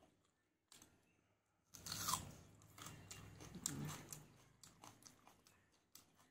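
Close-up biting and chewing of crisp fried pakora: a loud crunch about two seconds in, then a run of smaller crunches that thins out toward the end.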